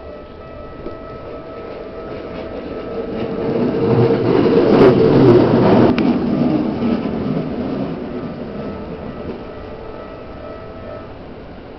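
An electric commuter train passes over a level crossing. Its wheel-and-rail rumble builds, peaks about four to six seconds in, then fades. Under it the crossing's electronic warning bell rings steadily and stops near the end.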